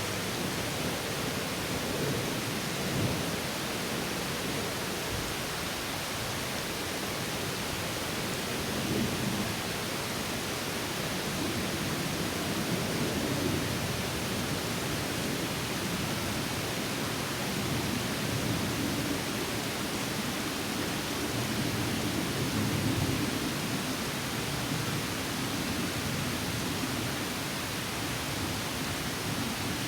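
Water spilling steadily over a small stream waterfall, a continuous rushing splash with gentle swells.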